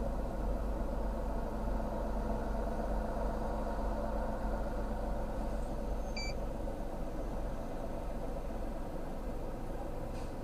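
A vehicle engine idling steadily with a low rumble. A single short high-pitched beep sounds about six seconds in.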